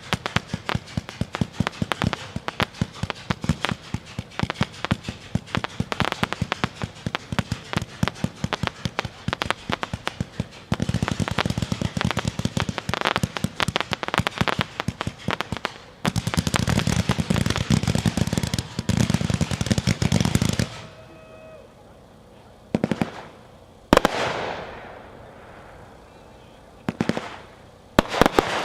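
A 228-shot firework cake firing rapid volleys of shots for about twenty seconds, thickening into a dense barrage before it stops. After that come a few single bangs and crackles.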